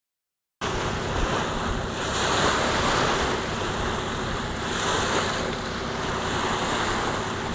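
Wind buffeting the microphone over water rushing past the hull of a boat under way, swelling and easing every couple of seconds; it starts abruptly about half a second in.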